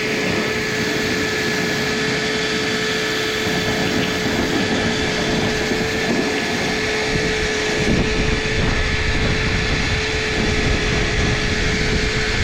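Dryer vent cleaning tool running: a steady motor whine over rushing air, with a deeper rumble coming in over the second half.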